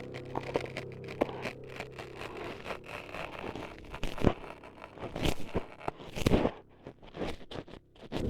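Close-miked ASMR scraping, crunching and crackling right against the microphone, staged as ears being cut up. Several louder sharp crunches come about four to six seconds in, and a low steady drone underneath fades out after the first two seconds or so.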